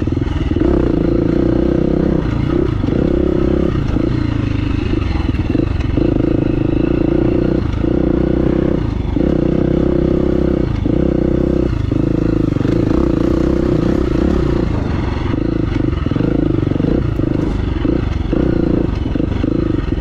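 Dirt bike engine running at low trail speed, the throttle rolled off and back on every second or two, with some clatter from the rough trail.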